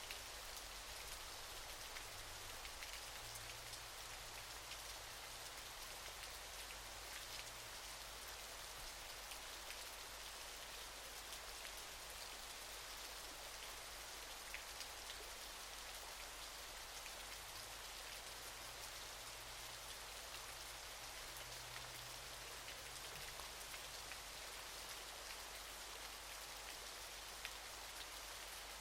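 Waterfall: a steady rush of falling water, an even hiss scattered with many small droplet ticks, with no change throughout.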